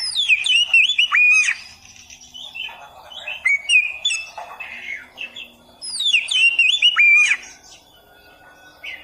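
Oriental magpie-robin (kacer) singing: a phrase of loud, quick whistles sweeping down in pitch, with shorter chirps in between. The same phrase comes again about six seconds later.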